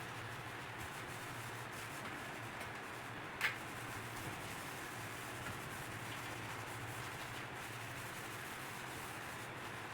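Steady rubbing of a sponge or cloth scrubbing the refrigerator's surfaces with cleaning cream, with one sharp click about three and a half seconds in.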